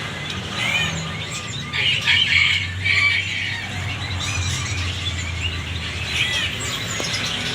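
Jalak suren (pied starling) chicks calling with short, repeated high chirps, coming thickest about two to three seconds in, over a low steady hum.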